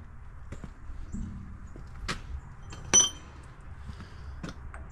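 Metal hand tools clinking together: a few light clicks and one sharper clink about three seconds in that rings briefly.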